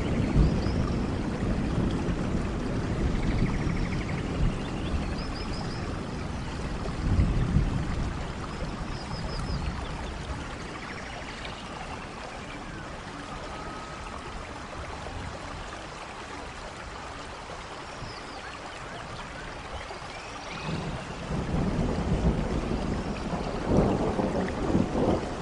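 Steady rain with rolling thunder in a forest. Low rumbles at the start fade into plain rain, swell briefly about seven seconds in, and build again near the end.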